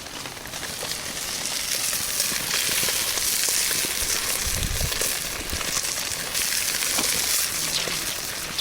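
Hot cooking fat sizzling with fine crackling over a campfire, a dense steady hiss that grows louder about a second in.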